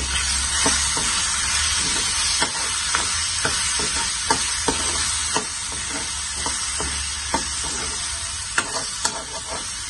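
Chicken livers frying in oil with tomato-onion masala, sizzling steadily, while a steel spoon stirs through them to mix in freshly added spice powders. The spoon knocks and scrapes against the pan about twice a second.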